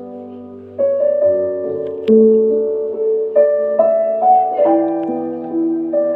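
Soft background piano music: slow, sustained notes that enter one after another and ring out.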